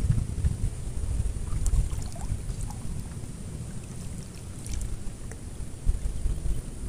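Strong wind buffeting the microphone, a low gusting rumble that rises and falls, with a few faint high chirps.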